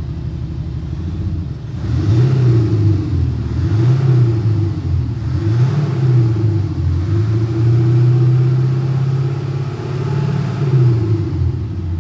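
Range Rover Velar revved while standing, with a Kufatec Sound Booster Pro active-sound actuator playing a simulated big-engine rumble. There are three short revs from about two seconds in, then a longer rev held for a few seconds, then one more blip.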